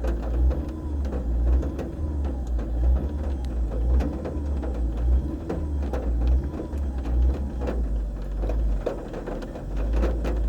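Car engine being warmed up, held at a rumbling idle and revved lightly over and over, the pitch rising and falling every second or two. Scattered sharp ticks run through it.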